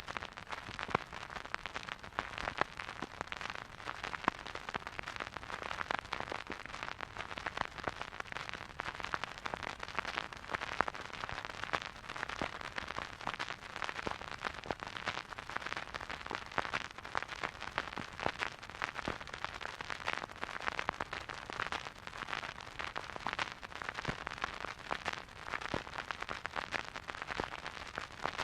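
Surface noise of a vinyl record playing a silent groove: a steady hiss with dense, irregular crackles and pops throughout.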